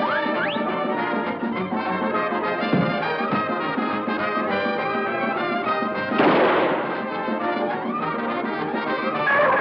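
Brass band music playing, with trumpets and trombones, and a loud crash about six seconds in.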